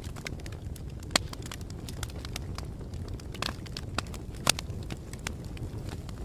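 Wood fire crackling: a low, steady rumble of flames with irregular sharp pops and snaps, the loudest about a second in and again near the middle.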